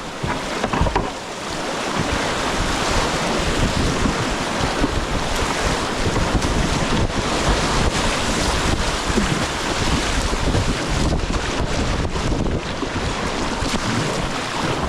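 Whitewater of the Nantahala River rushing and splashing around a kayak, with wind buffeting the microphone.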